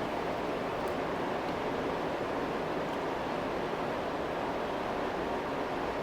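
Forge running with a steady, even rushing noise, with no hammer strikes.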